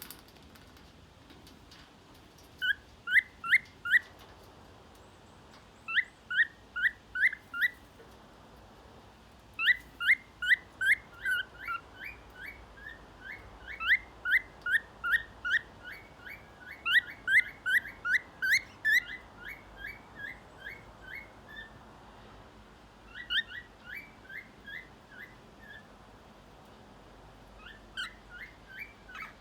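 Parrot calling in runs of short, rising chirps, four to eight in quick succession, with pauses of a second or two between the runs.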